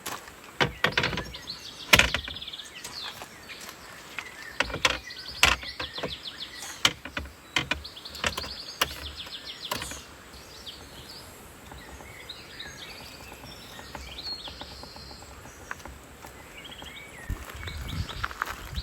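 Small birds chirping in trills in a forest, with a run of sharp clicks and knocks through the first half that then die away.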